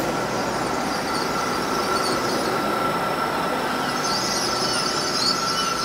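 Hitachi Class 800 intercity train rolling slowly alongside the platform as it draws to a stop: steady running noise with a constant whine, and a high-pitched wheel and brake squeal that comes in about four seconds in.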